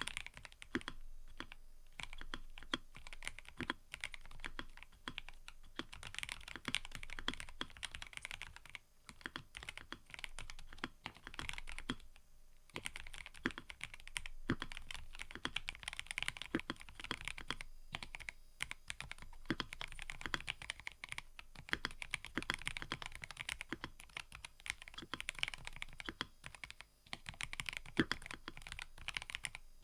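Fast typing on a mechanical keyboard: a rapid, dense patter of key clicks in runs of a few seconds, with short pauses between them.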